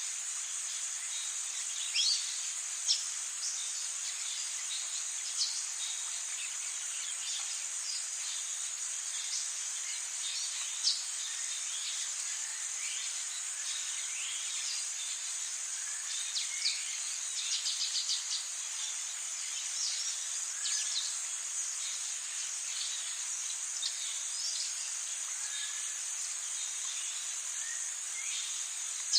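Rainforest ambience: a steady high-pitched drone of insects, with many short bird calls and chirps scattered throughout, including a quick run of repeated notes a little past the middle.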